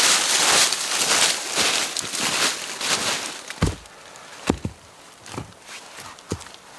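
Rustling and crackling in dry leaves and twigs on the forest floor, giving way about three seconds in to a few slow, separate thumping footsteps, roughly one a second.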